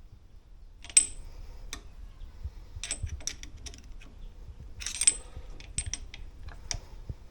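Metal tools and shock parts clinking and tapping together in a scattering of sharp clicks, several with a brief metallic ring, the loudest about a second in.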